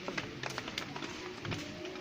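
Outdoor ambience: faint distant voices with scattered sharp clicks and knocks.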